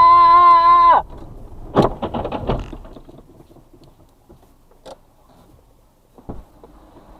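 Car horn held in one long, loud blast that cuts off about a second in, followed by a quick run of sharp knocks and then a dull thump near the end.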